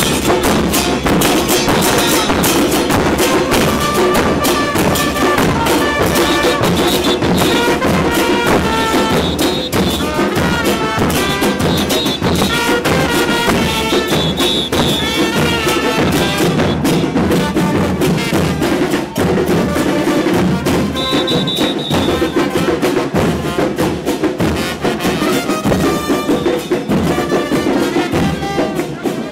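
Loud live carnival band music: continuous drumming with a pitched melody line over it.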